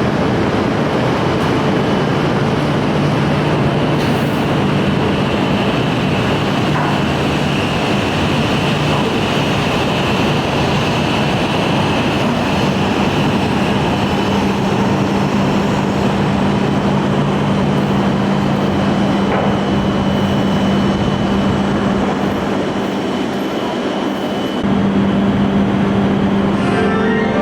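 A Shinkansen train standing at the platform, its on-board equipment giving a steady rushing hum with a low drone and a high whine. Near the end a chime-like melody starts.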